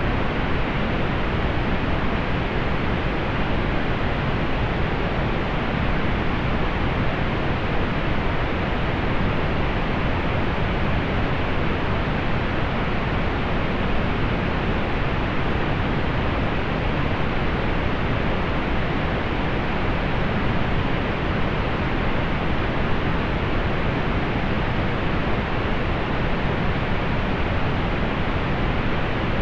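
Steady pink noise: an even, unchanging hiss, fuller in the low end and rolled off in the highs.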